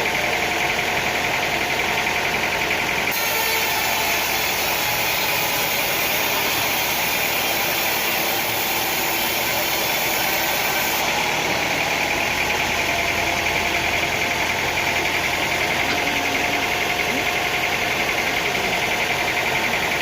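Sawmill machinery running steadily, a loud, even engine-like drone with no distinct cut through wood. Its high end changes abruptly about three seconds in and again about eleven seconds in.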